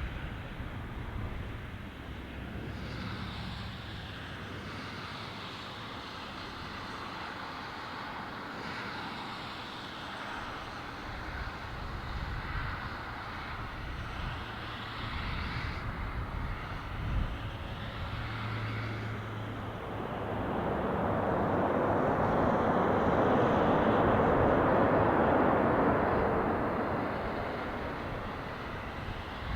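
Swiss Airbus A330 jet engines on landing on a wet runway: a steady rushing noise that swells about two-thirds of the way through, stays loudest for several seconds, then fades.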